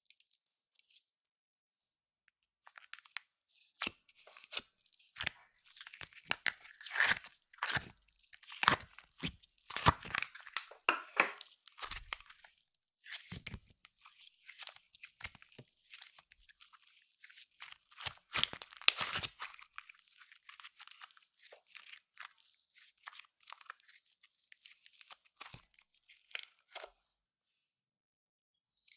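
Clear slime being squished and stretched by hand, giving dense sticky crackles and pops in bursts. The sound stops briefly just after the start and again near the end.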